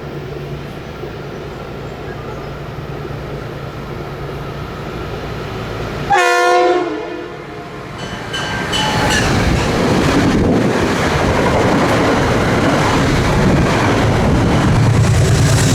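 Metro-North commuter train approaching with a low rumble, sounding one short horn blast about six seconds in, then running past close by with wheels clicking over the rail joints.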